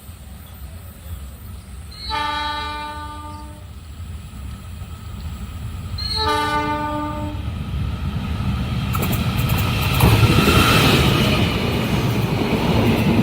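Approaching train sounding its horn, two blasts a few seconds apart, the first longer than the second. Then the rumble and wheel noise of the train grow loud as it reaches the crossing, about ten seconds in.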